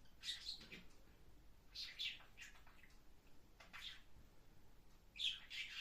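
Pet parrot chirping: short, high chirps in four brief groups, roughly every second and a half.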